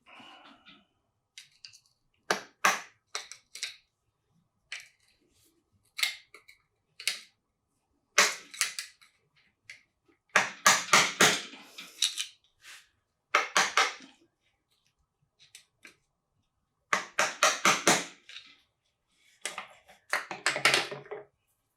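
Metal hand tools clanking and clicking on engine parts in short irregular bursts of sharp knocks, some as quick runs of strikes.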